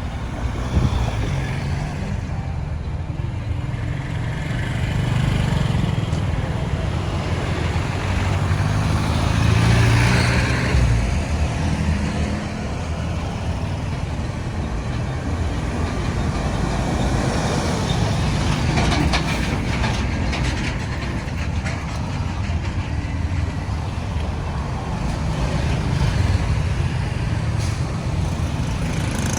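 Road traffic noise: a continuous rumble of motor vehicles on the road, swelling as a louder vehicle passes about ten seconds in.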